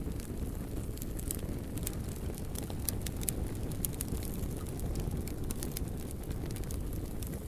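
Wood fire burning: a steady low rush from the flames with frequent, irregular sharp crackles and pops from the burning wood.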